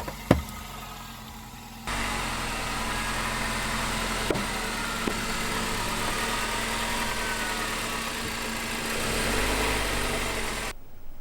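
A sharp crack, then a car engine running steadily for about nine seconds, with a couple of faint ticks, cutting off abruptly near the end.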